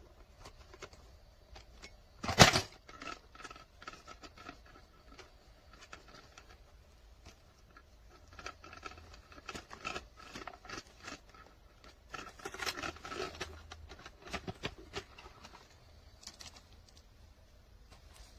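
Handling noises: scattered clicks, taps and rustling, with one loud knock about two and a half seconds in.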